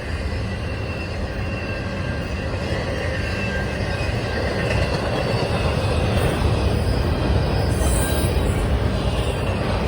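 Freight train cars rolling past, steel wheels running on the rails with a steady rumble, a faint high squeal and a brief sharper squeal about eight seconds in.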